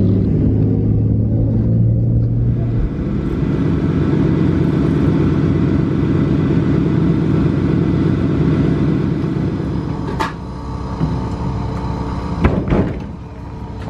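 Car engine running with a steady low drone, giving way after about three seconds to a busier engine rumble. A few sharp knocks come near the end.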